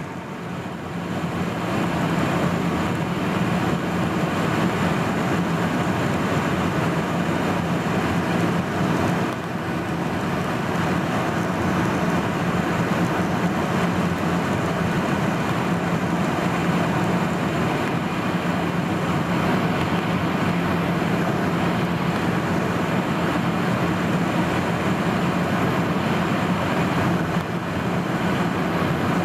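Steady engine and airflow noise inside the passenger cabin of a Boeing 737-800 in flight, with a steady low hum from its CFM56-7B turbofans under the rush of air. The level dips briefly near the start and again about 9 seconds in.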